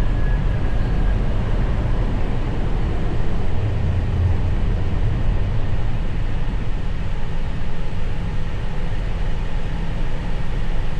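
Steady cockpit noise of an Airbus A321 with its IAE V2500 engines running on the ground: a continuous low rumble under an even hiss.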